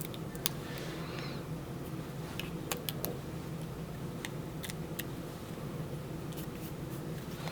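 Scattered small clicks and ticks of paper pieces being handled and pressed down during paper crafting, over a steady low hum.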